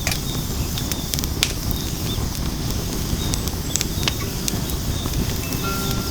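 Firewood burning in a fire pit, with scattered sharp crackles and pops over a steady low rumble of flame.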